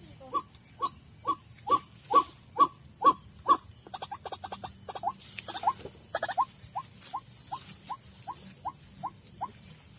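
White-breasted waterhen calls: a long run of repeated notes, a little over two a second, louder for the first three and a half seconds and fainter after, over a steady high insect drone.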